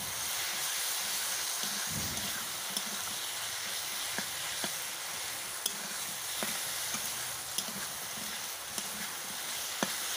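Chicken skin and potatoes frying in oil in a kadai with a steady sizzle, while a spatula stirs and scrapes them through the pan, clicking sharply against the metal now and then. This is the sautéing (kashano) stage of the curry.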